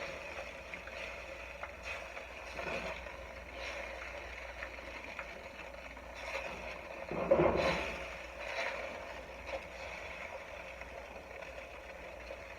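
Cornstarch-thickened sauce bubbling in a pot on the stove, with a spoon stirring and scraping against the pot now and then, the loudest scrape about seven and a half seconds in.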